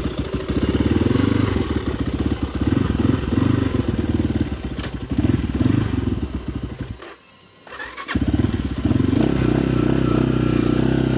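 Cold dirt bike engine running at low revs with a fast pulse of firing strokes. About seven seconds in, the sound drops away for around a second, then the engine is running steadily again.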